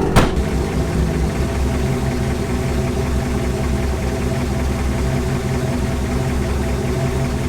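Chevrolet 350 small-block V8 idling steadily, with one sharp click just after the start.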